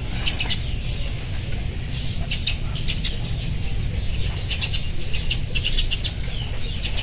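Small birds chirping in short, irregular high calls, over a steady low background rumble.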